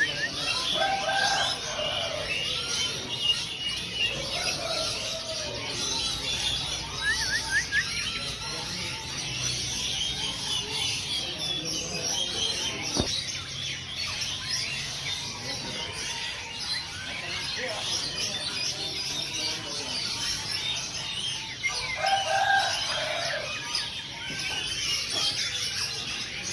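Many caged songbirds chirping and singing over one another in a dense, continuous chorus, with a few lower calls now and then.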